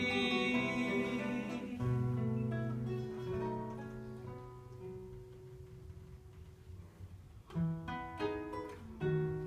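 Live guitar playing an instrumental passage between sung lines of a song. The notes ring out and die down to a quiet spell around the middle, then picking starts up again near the end.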